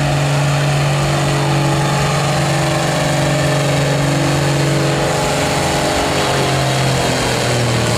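A pulling tractor's engine running loud and steady at high speed, its pitch dipping slightly about six seconds in.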